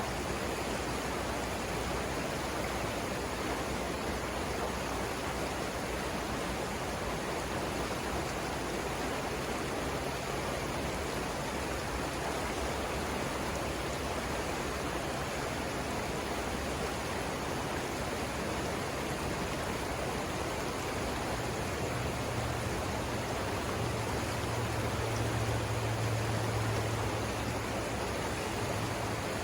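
Savannah River water rushing steadily. A low hum grows louder for a few seconds near the end, then fades.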